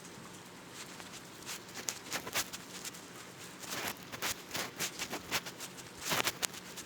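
Irregular light tapping and clicking, a dozen or so sharp ticks at uneven spacing, thickening from about a second and a half in, over a faint steady hum.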